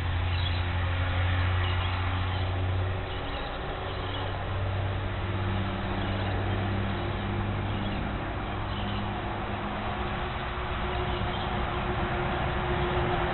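A steady low motor hum, its pitch lines shifting slightly, with a few faint short high calls.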